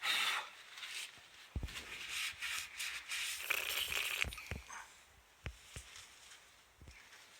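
Worn front wheel hub bearing turned by hand, giving scattered clicks and rattling: the sign of a failed bearing.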